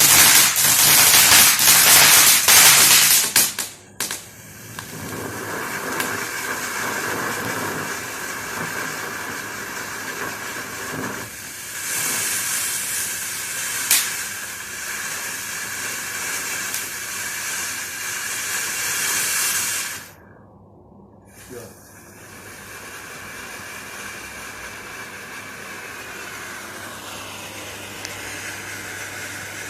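Fireworks: a loud dense crackle for the first few seconds, then a long steady hissing like a firework fountain burning, with one sharp crack in the middle. The hiss drops out briefly about twenty seconds in and resumes more faintly.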